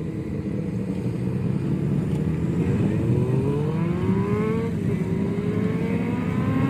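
Suzuki motorcycle accelerating away over a low idling rumble: its engine note climbs from about the middle, drops once at a gear change and climbs again.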